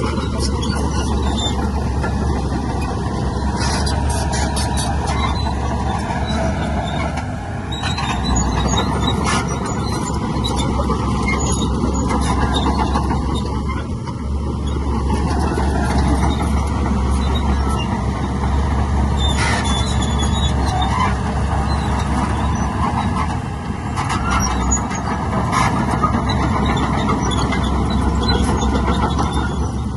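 Heavy diesel earthmoving machinery working: a steady engine drone with intermittent metallic clanks.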